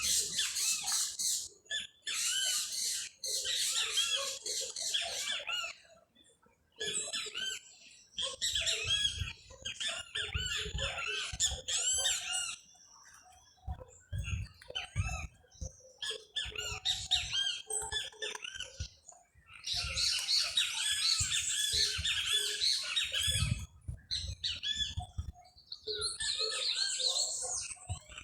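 Many small birds chirping and singing at once, a dense chorus of overlapping short chirps and trills that breaks off briefly several times, with low bumps underneath in the second half.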